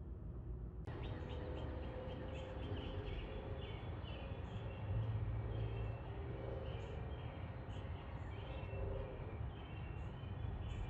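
Small birds chirping repeatedly over a steady low background rumble, beginning suddenly about a second in.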